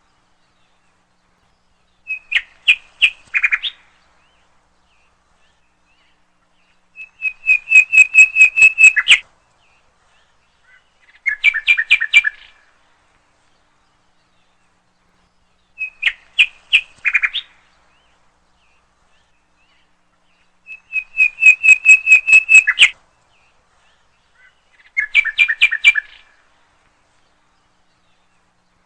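A bird singing close by in six short phrases, each a quick string of chirps, repeated about every four to five seconds with quiet gaps between.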